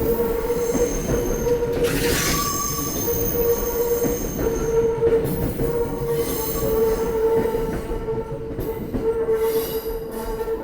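A Sobu Line commuter train running through the station, its wheels clattering over the rail joints with a steady ringing tone from the wheels and rails. It grows fainter near the end.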